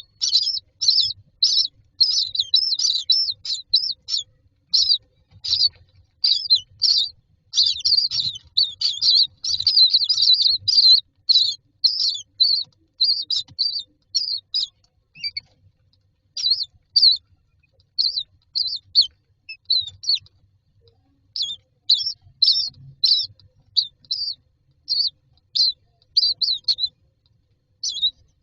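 Common myna chicks giving rapid, high-pitched begging calls while waiting for food, a dense stream of chirps for about the first ten seconds, then more scattered with short pauses.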